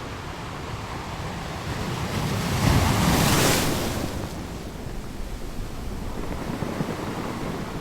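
Wind blowing across the microphone outdoors, a steady rushing noise that swells for about a second roughly three seconds in.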